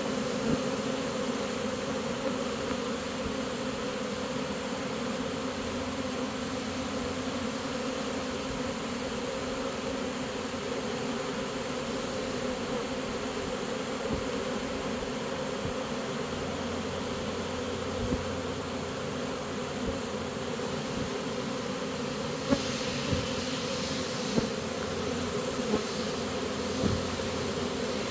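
A honey bee swarm buzzing: a steady, dense hum of many bees. In the second half a few short knocks stand out above it.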